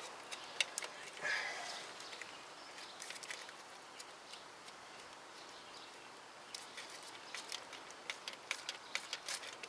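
Faint, scattered light clicks and taps of a hand tool and small metal parts on a starter's terminal, coming thicker and more irregular near the end.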